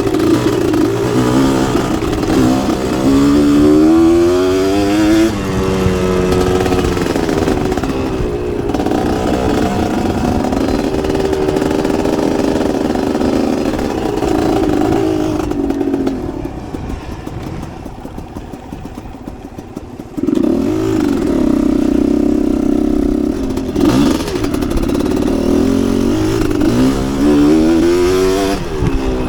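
Dirt bike engine being ridden on a motocross track, revving up and down through throttle openings and gear changes, with some rattle. About halfway through it drops to a quieter, lower note for a few seconds, then comes back hard on the throttle.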